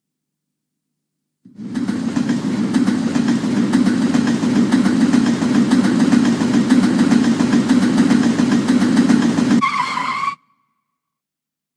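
London Underground train running, a loud steady noise heavy in the low range, starting about a second and a half in. Near the end comes a brief high-pitched squeal, and then the sound cuts off abruptly.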